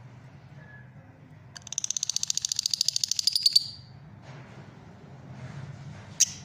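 Fischer's lovebird calling: a rapid run of high chirps, about ten a second, growing louder over about two seconds, then a single sharp chirp near the end.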